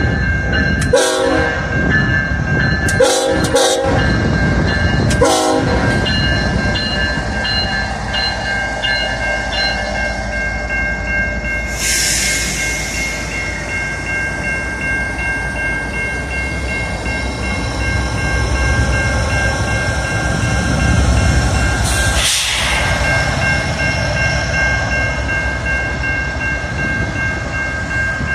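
Diesel locomotive air horn sounding three blasts in the first few seconds, then the steady rumble of a train rolling past with a constant high tone over it. Two brief hissing bursts come about midway and again near the end.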